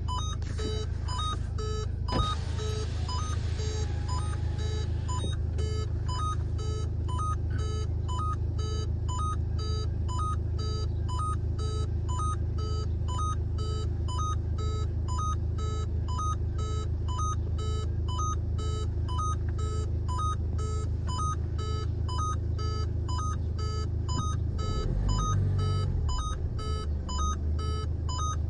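A vehicle's electronic warning chime beeping evenly about twice a second over the steady low hum of an idling engine; the engine note shifts briefly near the end.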